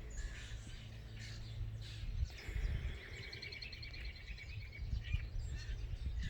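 Songbirds singing, with a long rapid trill from about two to five seconds in. Under it runs a steady low rumble from distant mowers and tillers working fields.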